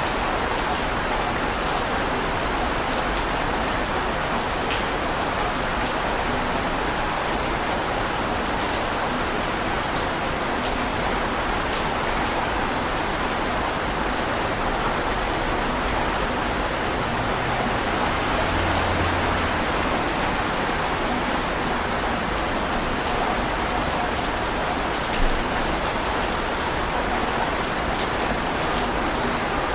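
Heavy rain falling steadily, a dense even hiss of drops with an occasional sharper drop tick and one brief louder tick near the end.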